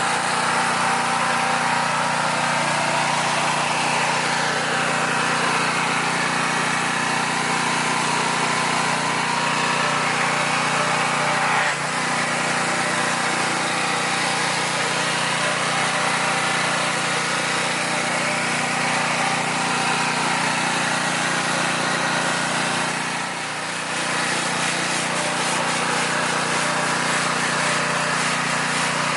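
Pressure washer running steadily: a small engine's constant hum under the hiss of the water spray, with two brief dips in level.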